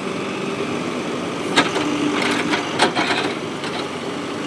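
Tractor engine running steadily, with two sharp knocks, one about a second and a half in and one near three seconds.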